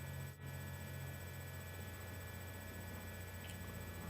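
Low, steady electrical hum over faint room tone, with a brief dropout about half a second in.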